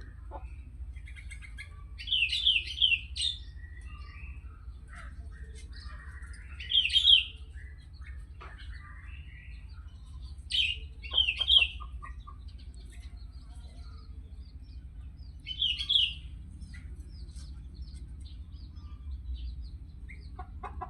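Sooty-headed bulbul (kutilang) singing in four short phrases of quick, clear notes, a few seconds apart, with fainter chirps between, over a low steady hum.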